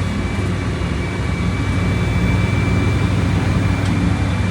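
Volkswagen Volksbus 17.230 Euro 6 bus's diesel engine running steadily, an even low drone with a thin steady high whine above it.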